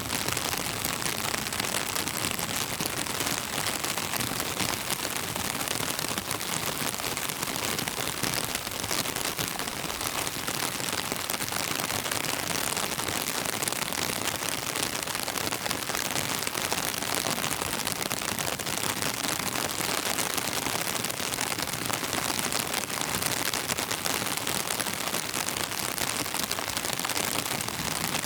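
Steady rain: a dense, even hiss of countless small drop impacts that keeps on without letup.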